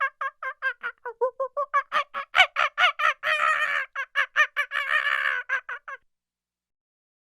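Domestic fowl calling: a fast run of short pitched calls, about five a second, with two longer drawn-out calls in the middle. The calling stops about six seconds in.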